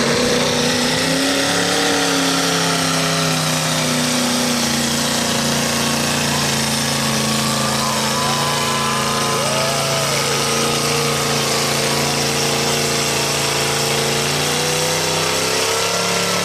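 Off-road vehicle engine running hard and steadily under load, its pitch sagging slightly early on and rising again near the end. A few short higher whines are heard around the middle.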